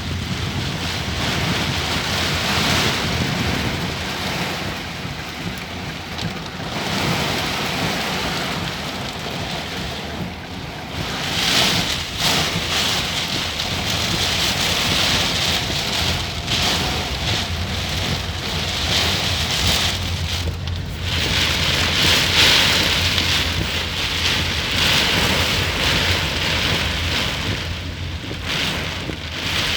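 Windstorm with heavy rain: a continuous rush of rain and wind that swells and eases in gusts every few seconds, with wind buffeting the microphone.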